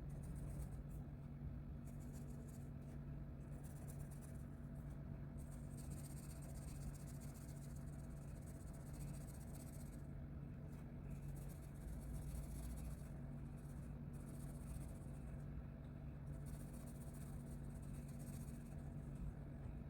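Colouring strokes scratching on paper, in stretches of a second or two with short pauses between, over a steady low hum.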